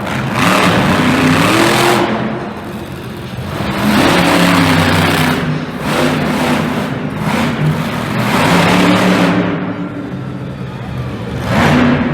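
Monster truck engine revving hard in repeated surges, rising in pitch and swelling on each throttle blip, about every three to four seconds.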